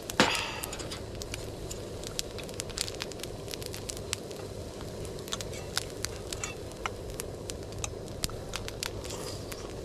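Wood campfire crackling, with irregular sharp pops and snaps over a steady low rush of flame, one louder snap right at the start.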